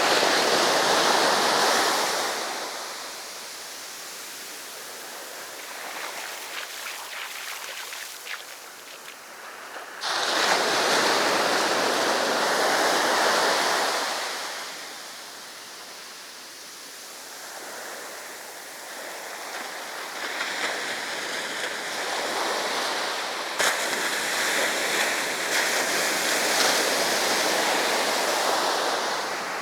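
Sea waves breaking and washing up the beach in slow surges: a loud swell at the start, another that begins suddenly about ten seconds in, and a longer one in the last third, with quieter wash between.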